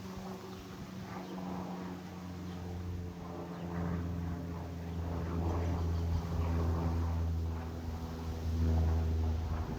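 Cessna 172M Skyhawk's four-cylinder Lycoming piston engine and propeller running with a steady drone, swelling slightly near the end.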